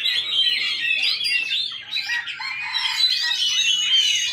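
Many caged songbirds singing at once, a dense chorus of overlapping chirps, trills and whistles with a brief lull about two seconds in.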